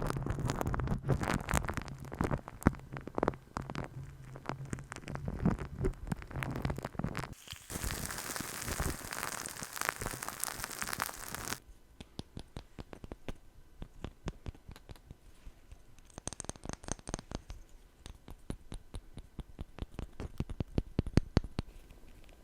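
Close-miked ASMR tapping and rubbing sounds: dense crackly taps and rubbing, then about four seconds of steady scratchy hiss, then sparser light taps and clicks.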